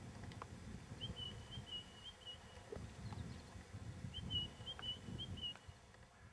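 A bird singing two short phrases of quick repeated notes, about three seconds apart, over a faint, uneven low rumble.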